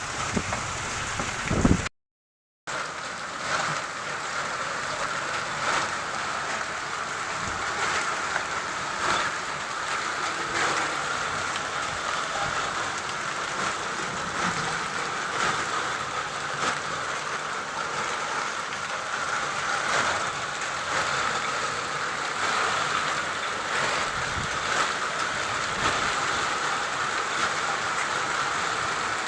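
Heavy rain mixed with hail: a steady hiss of rain with many small sharp hits of hailstones on surfaces. The sound drops out completely for under a second about two seconds in.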